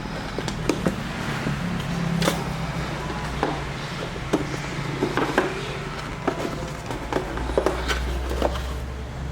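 Scattered light clicks and taps over a steady low hum, the sound of small hard objects being handled.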